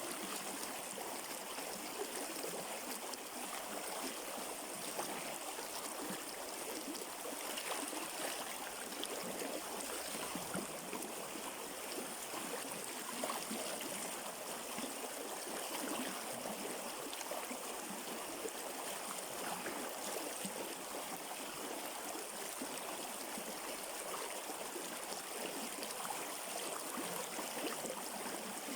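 A river stream flowing over rocks: a steady rush of water with fine splashing and trickling, even throughout.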